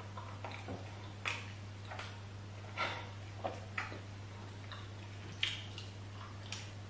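Mouth sounds of eating soft banku and okra stew by hand: irregular short wet smacks and clicks of chewing, about a dozen over a few seconds, over a steady low hum.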